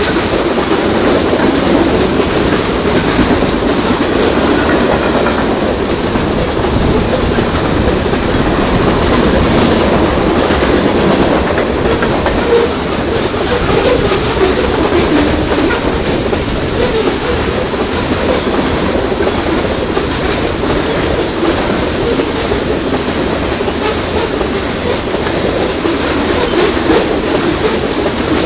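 Freight train's covered hopper and tank cars rolling past: a steady rumble of steel wheels on rail, with the clickety-clack of wheels passing over rail joints.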